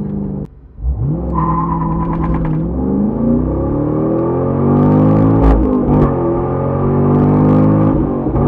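Corvette C6's 6.0-litre V8 through a Borla aftermarket exhaust, revving: the engine note climbs and falls in pitch several times after a short dropout about half a second in.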